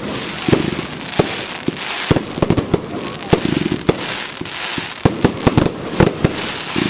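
Fireworks display going off: a dense, irregular run of sharp bangs and crackles over a steady hiss, several reports a second throughout.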